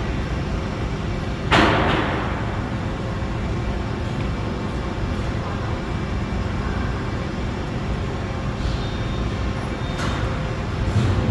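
Steady low rumble of a running machine or vehicle, with a sharp bang about one and a half seconds in that rings briefly, and a couple of lighter knocks near the end.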